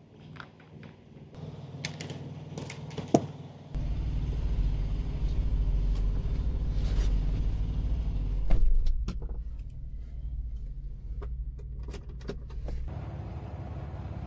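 Semi-truck's diesel engine running steadily, with clicks and knocks in the first few seconds. A deep low rumble comes in sharply about four seconds in and drops away near the end.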